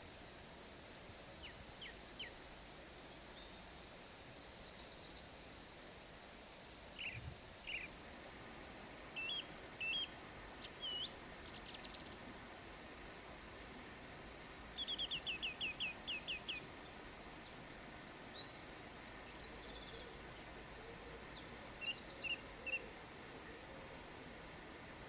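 Several songbirds singing and calling over a steady background hiss: scattered high chirps, short whistles and trills, and a quick run of about eight falling notes about two-thirds of the way through.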